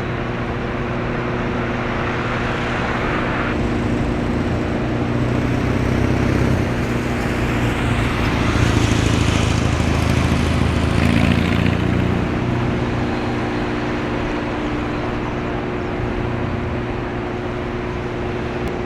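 Steady low drone of a passing container ship's engine, with a hum that swells and peaks about halfway through, then eases off.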